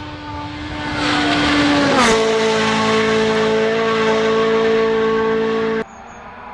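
Rally1 car's turbocharged 1.6-litre four-cylinder engine held flat out, getting louder as it approaches. Its pitch drops sharply as it passes close by about two seconds in. The loud engine note cuts off abruptly near the end, leaving a quieter engine sound.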